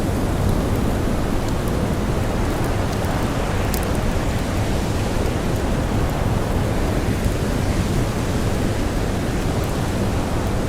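Steady blizzard wind, a dense even rush heaviest in the low end, with a few faint scattered crackles from a campfire.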